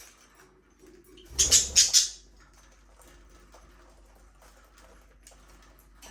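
Budgerigars in an aviary chirping and clicking faintly, broken by a short loud flurry of about four rapid noisy pulses between one and two seconds in.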